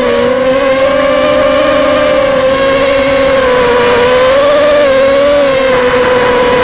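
Blackout 250 mini quadcopter's brushless motors whining steadily in flight, the pitch rising and falling gently with throttle. Its owner thinks the sound means at least one motor is on its way out.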